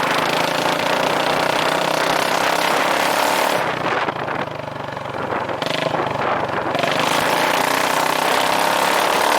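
2009 Yamaha Majesty 400 scooter's single-cylinder engine running loudly through a straight pipe with no muffler, a fast rattly exhaust pulse. It eases off a little under four seconds in and picks up again about two seconds later.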